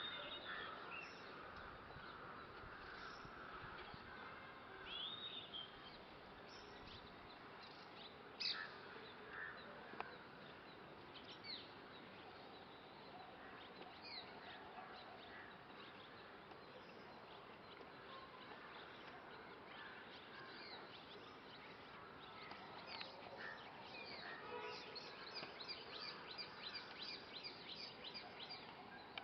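Faint chirping and twittering of a group of red-rumped swallows: scattered short calls that grow into a dense run of rapid twitters near the end, over a steady background hiss.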